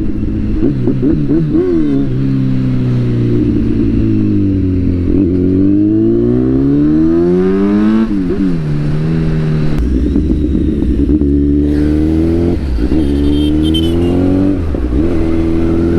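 Kawasaki superbike with an Akrapovic exhaust, its engine note revving up and down several times. The longest climb ends in a sharp drop about halfway through, as under hard acceleration with a gear change.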